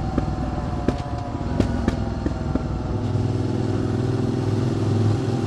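QJ Motors SVT650X's V-twin through an Arrow Racetech exhaust: the engine note falls off on a closed throttle with several sharp exhaust pops, then about three seconds in it settles into a steady, louder pull as the throttle is opened again. The popping on the overrun comes with the flashed ECU map.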